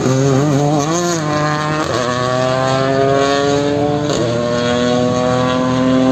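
Toyota GR Yaris rally car engine accelerating hard: its pitch wavers about a second in, then climbs steadily, drops sharply at upshifts about two and four seconds in, and climbs again after each.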